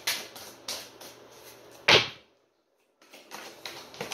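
Tarot or oracle cards being handled and shuffled, a run of short clicks and rustles with one loud knock about two seconds in. The sound drops to dead silence for about a second, then the card handling resumes.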